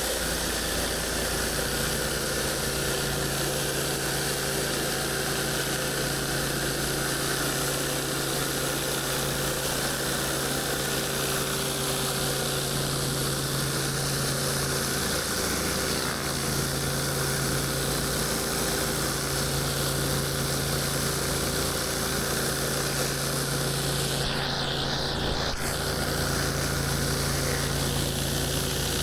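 Pressure washer running steadily, its engine humming under the constant hiss of high-pressure water on concrete, with a brief sharper hiss near the end.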